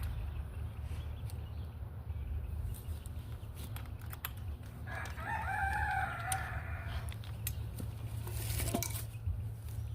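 A rooster crowing once, a wavering call of about two seconds that starts about five seconds in, over a steady low hum and a few light clicks.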